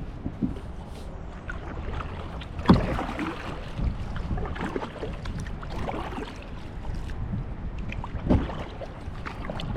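Kayak paddle dipping and splashing in the water, with water trickling off the blade between strokes. Two splashes stand out, about three seconds in and near the end. Over a low wind rumble on the microphone.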